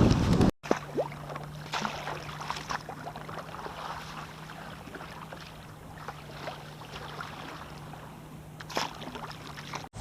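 Kayak paddle strokes in calm water: scattered light splashes and drips over a faint steady hum. Wind noise on the microphone comes first and stops at a cut about half a second in.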